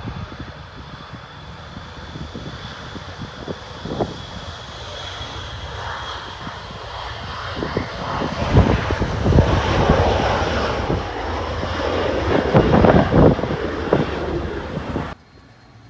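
Jet airliner's engines growing louder as it passes close by, with wind gusting on the microphone; the sound cuts off suddenly near the end.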